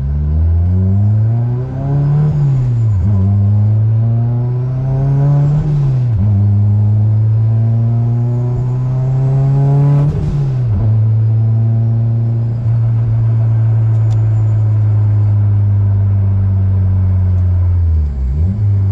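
Big-turbo Mazdaspeed6's turbocharged 2.3-litre four-cylinder heard from inside the cabin, pulling up through the revs three times with a sharp drop at each gear change, a faint turbo whistle rising with each climb. After the third pull it settles into a steady cruise, dipping once more near the end.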